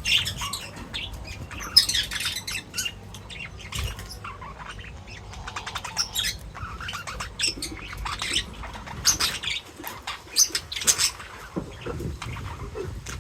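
Birds chirping in many short, irregular calls, several overlapping at a time.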